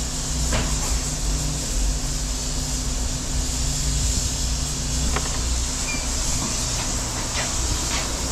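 A large engine running steadily at a constant pitch, with a few light metallic clinks, one about half a second in and several more near the end.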